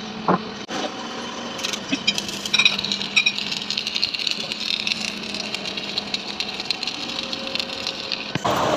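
Machinery running in a workshop: a steady mechanical noise with rattles and scattered sharp clicks. The sound changes abruptly about a second in and again near the end.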